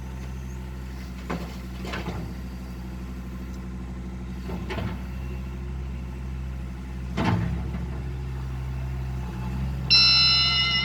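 Heavy diesel engine of an excavator running steadily, with several metallic clanks. Near the end a loud, high-pitched steady tone starts abruptly.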